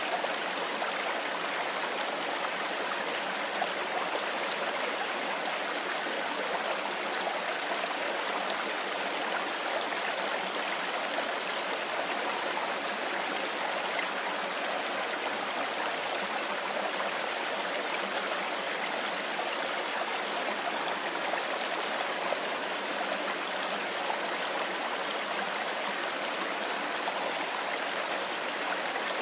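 Mountain river flowing over stones: a steady, even rush of running water.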